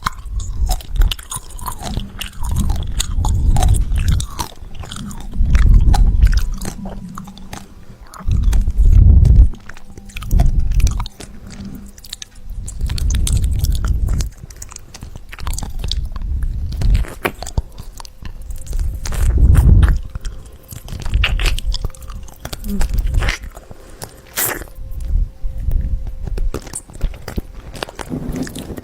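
Close-miked chewing and crunching of food: irregular crisp crunches and wet mouth clicks, coming in bouts of a few seconds.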